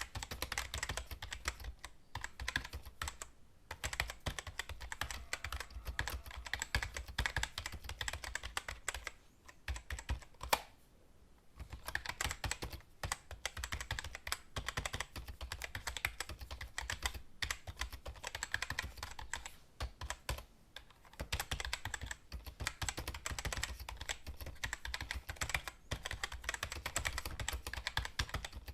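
Computer keyboard typing: fast runs of key clicks broken by short pauses, the longest about ten seconds in.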